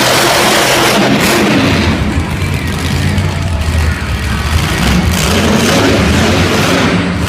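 Monster truck engine running loud, mixed with arena music over the PA.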